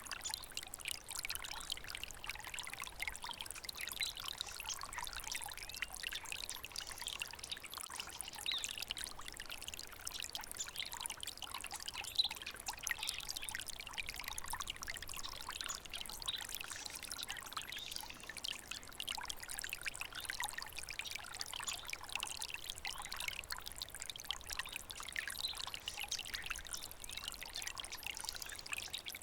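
A small stream of water running and trickling steadily, with constant bubbling and splashing.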